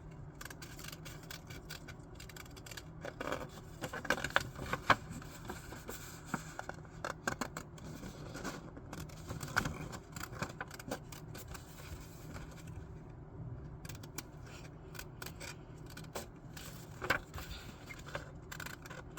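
Scissors cutting sketchbook paper around a bumpy drawn outline: short irregular runs of crisp snips, loudest about four to five seconds in, with a quieter pause past the middle before a few more snips near the end.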